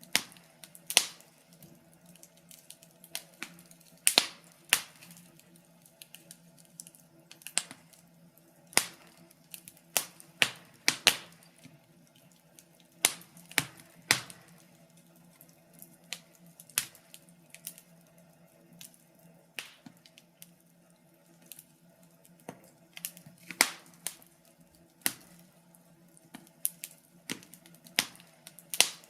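Wood fire crackling: irregular sharp snaps and pops, some much louder than others, over a faint steady low hum.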